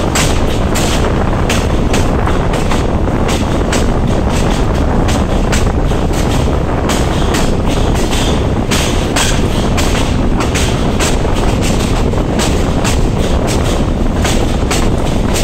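Bzmot diesel railcar running along a minor line: steady engine and wheel-on-rail rolling noise with frequent short, irregular knocks and clatter.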